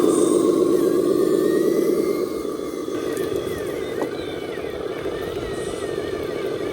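Electric drive motor and gearbox of an RC scale dump truck running with a steady whir, louder for about the first two seconds and then easing off.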